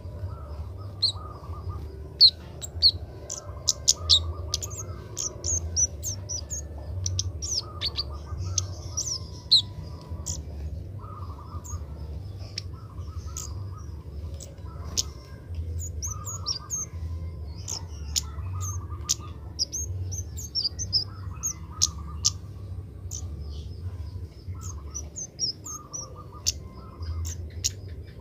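Kemade bird chirping and calling: a steady run of short, sharp high chirps mixed with lower warbling phrases, over a steady low hum.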